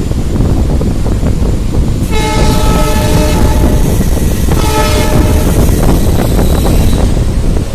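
A diesel locomotive's multi-tone air horn sounds twice, a longer blast about two seconds in and a shorter one about a second later, over the steady rumble of the moving passenger train.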